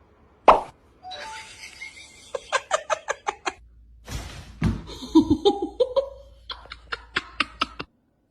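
People laughing in quick repeated bursts of short pulses.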